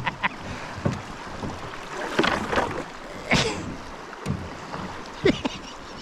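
Canoe being paddled through moving water: a steady rush of water with a few short, sharp splashes spread through it.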